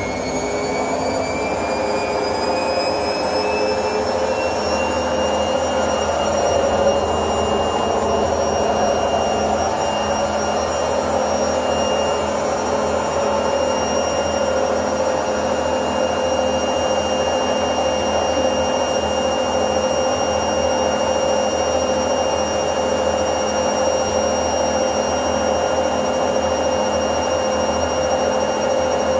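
Samsung washing machine in its spin cycle: the motor's whine rises in pitch over the first few seconds as the drum speeds up, then holds steady at full spin speed over a steady rushing rumble.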